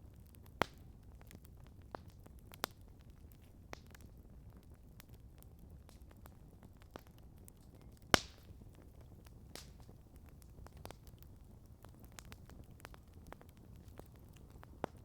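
Wood campfire crackling: scattered sharp pops and snaps over a low steady background, with the loudest pop about halfway through.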